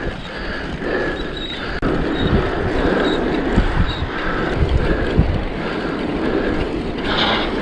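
Wind buffeting the microphone of a mountain biker's camera while riding uphill, with a gusty low rumble.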